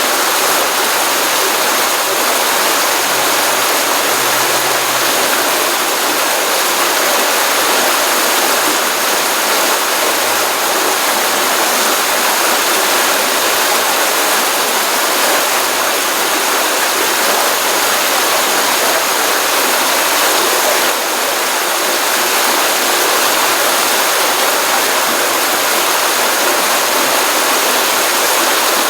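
Stream of water running out of a pond: a steady, continuous rush and splash of flowing water.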